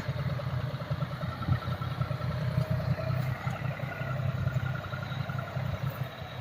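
Tractor diesel engine running steadily, a low throbbing chug with a steady whine above it.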